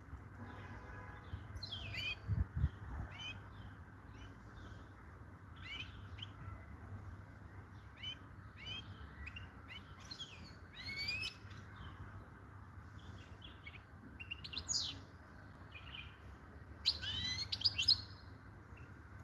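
European goldfinch singing: short bursts of quick, high twittering notes with gaps between, busiest near the end. A couple of low thumps sound about two seconds in.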